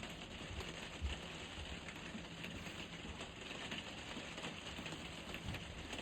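Steady rain falling, an even hiss with many fine drop ticks, with one dull thump about a second in.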